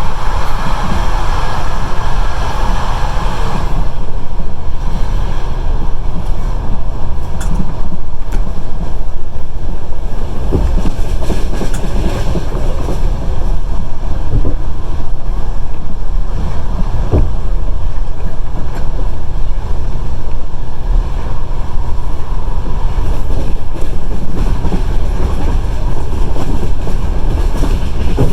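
Passenger train running at speed, heard at the carriage window: a steady, loud low rumble of wheels on track mixed with rushing air. A few sharp clicks of the wheels over rail joints stand out.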